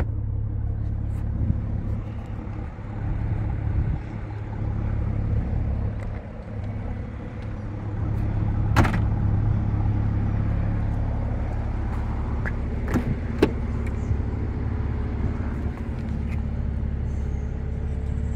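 2018 Mercedes-AMG C43's twin-turbo V6 idling steadily, with a few sharp clicks or knocks, one about nine seconds in and two around thirteen seconds.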